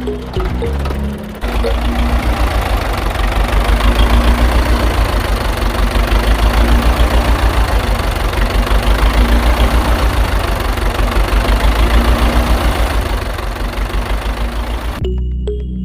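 A small motor-driven DIY model tractor and chaff cutter running, a dense mechanical noise with a low rumble and a rapid, even pulsing. It starts about a second and a half in and cuts off sharply near the end.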